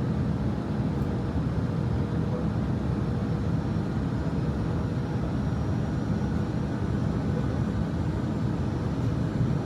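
Steady cabin noise inside an Airbus A319 airliner: an even, low drone of engines and airflow with a faint steady tone above it.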